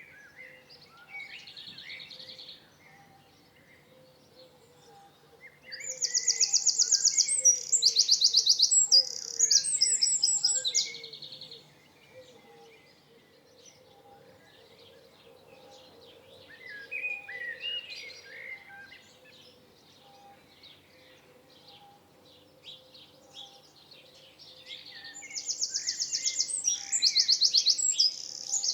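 Wild birdsong. One bird sings loud, rapid, high trilled phrases about six seconds in and again near the end, with softer chirps and calls in between.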